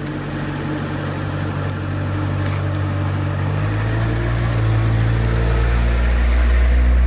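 An engine running steadily and growing louder, its low note dropping and strengthening about three and a half seconds in.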